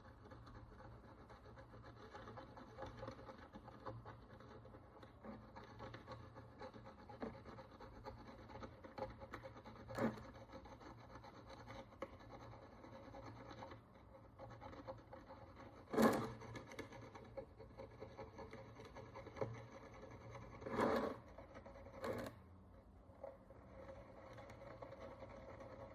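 Faint, continuous scratching and scraping of a small hand tool working the dirt and oxidation crust off an ancient bronze coin, with a few louder short knocks, the strongest about sixteen seconds in.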